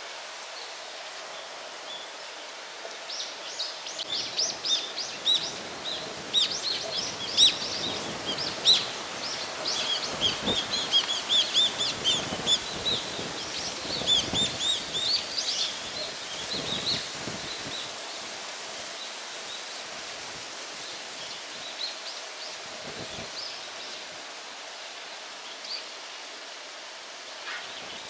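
Small birds chirping in a dense, rapid flurry of short high calls over a steady outdoor hiss, thinning out after about eighteen seconds. A few low rumbles of wind buffet the microphone along the way.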